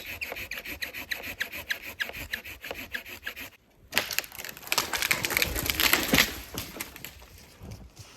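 Hand saw cutting through a tree trunk for firewood, with quick, regular back-and-forth strokes, about four or five a second. After a brief pause there is a louder, rougher stretch of about two seconds that fades away.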